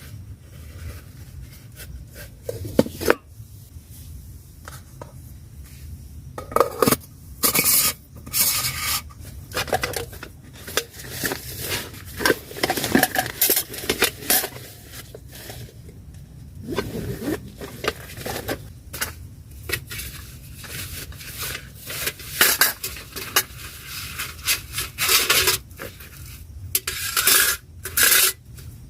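Irregular clinks, knocks and scrapes of utensils against cookware or dishes, with a few louder clatters around three seconds in, around seven to eight seconds in and near the end.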